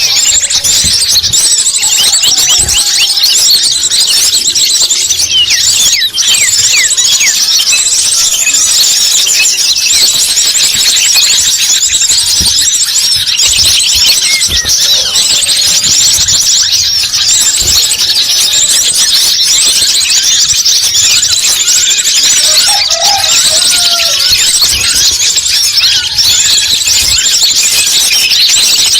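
Many small birds chirping at once in a dense, unbroken high-pitched chatter: a bird-lure (pikat) call recording played loud. A few lower calls come through about 23 seconds in.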